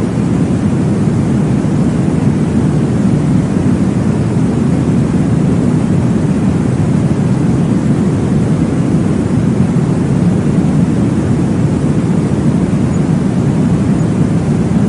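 Baby sleep-aid noise track: a steady, deep whooshing noise, heavier in the low end, that holds an even level without breaks or pulses.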